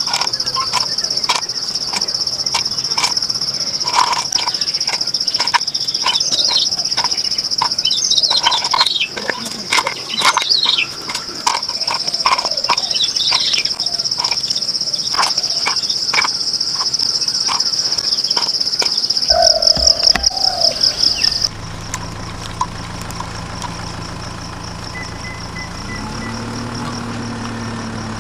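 A steady high insect trill with bird chirps and scattered small clicks, which cuts off abruptly about three-quarters of the way through. It gives way to the low hum of a small motor that steps up in pitch near the end.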